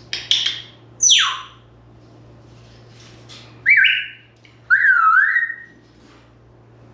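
African grey parrot calling: a short squawk falling steeply in pitch about a second in, then two loud whistles, one in two steps and the next wavering as it dips and rises.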